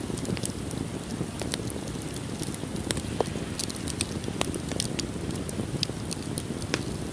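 Wood fire burning in a fireplace, crackling with many irregular sharp pops over a low steady rush of the flames.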